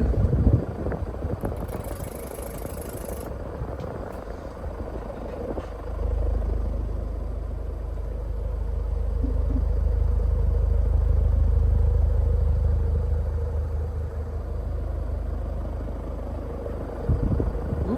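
Evergo 36-inch spinner ceiling fan running at high speed, a steady motor hum under the rush of its airflow. The draught buffets the microphone as a low rumble that grows stronger after about six seconds and eases off near the end.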